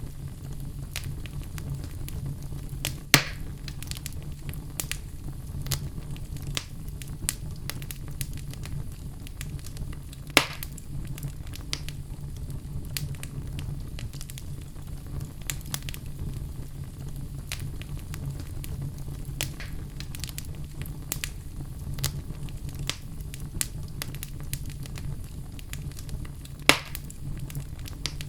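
Wood fire burning in a fireplace: a steady low rumble under constant small crackles, with three louder sharp pops spread through.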